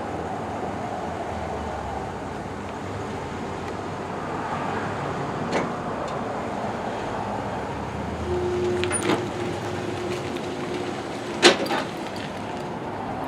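A truck towing a camper trailer while it drives, with steady engine and road noise. A steady hum comes in about two-thirds of the way through, and there is a sharp knock near the end.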